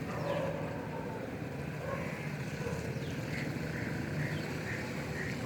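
Steady outdoor background noise with a faint low hum. From a bit past halfway, an animal's short call repeats about twice a second.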